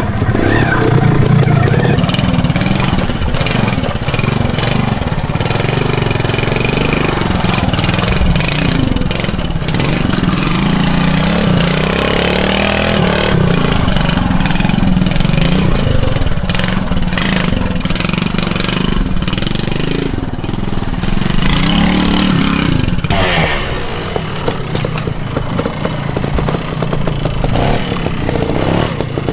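Classic trials motorcycle engine running at low speed, its pitch rising and falling as the throttle is worked, with scattered clicks and knocks.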